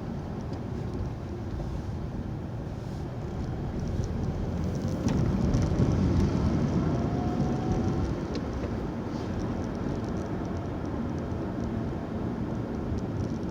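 Car driving, heard from inside: steady engine and tyre rumble that grows louder in the middle, with a rising engine note as the car speeds up.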